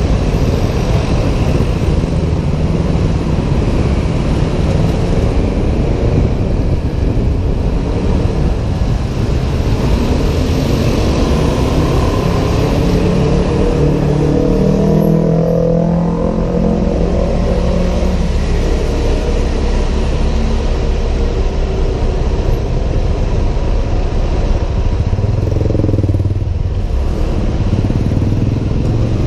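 Honda PCX 125 single-cylinder scooter riding in city traffic, heard from a helmet-mounted camera: a steady engine drone under wind rushing over the microphone. An engine tone swells and fades about halfway through and again near the end.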